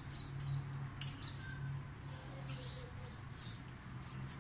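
Close-up mouth sounds of people eating: chewing and lip smacking, many short wet clicks, over a steady low hum.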